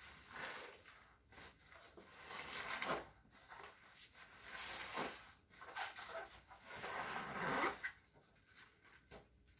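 Cleaning sponge squishing and squeaking in several long rubbing strokes.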